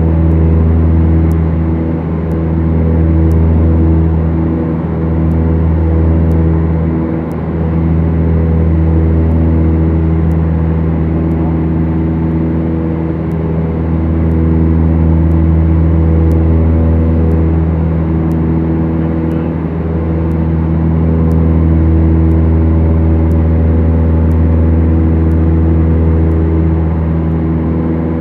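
Beechcraft Duchess's twin four-cylinder Lycoming engines and propellers droning steadily in cruise, heard from the cabin, the level swelling and fading slowly every few seconds.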